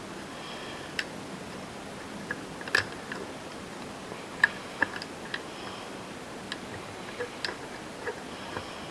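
Scattered small clicks and taps of plastic and metal RC-car parts being handled, as a turnbuckle's plastic ball cup is worked onto a steering pivot ball. The sharpest clicks come nearly three seconds and four and a half seconds in.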